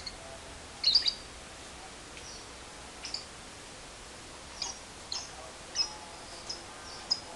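Lovebird calls: a series of short, sharp, high-pitched chirps, spaced irregularly about every half second to second and a half, with the loudest burst about a second in. These are single chirps, not the long rapid ngekek trill.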